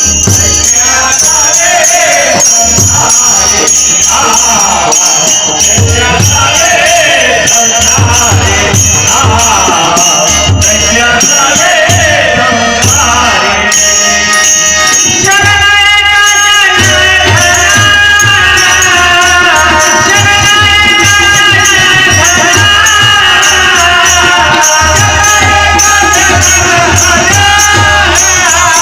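Marathi abhang devotional music: a pitched melody line carries on over jingling percussion and a low drum beat.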